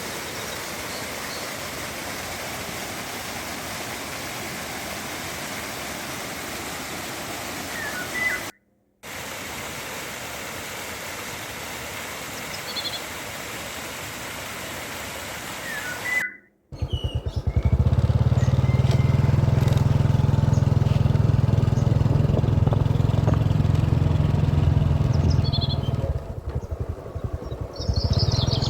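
Steady rush of river water with a few brief bird chirps, broken by two short cuts to silence. After the second cut, a much louder low steady rumble takes over, with bird chirps over it near the end.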